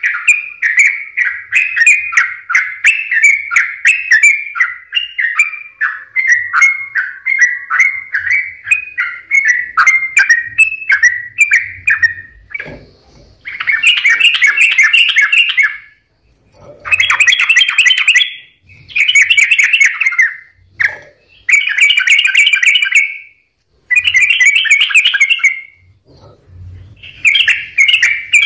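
Yellow-vented bulbul (trucukan) singing loudly: about twelve seconds of rapid, bubbly chattering notes, then a run of dense phrases about two seconds long with short pauses between them.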